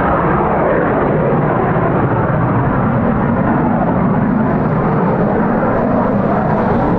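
Jet airliner engines running, a loud, steady rush of noise.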